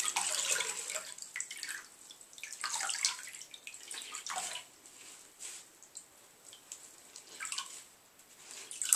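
Water being squeezed out of a soaked plush toy, splashing and dripping back into the water below in irregular bursts, heaviest in the first second and fading to scattered drips.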